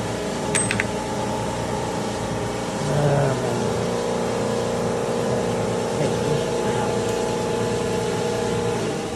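A motor running steadily with a light metallic click about half a second in, then winding down and stopping at the very end.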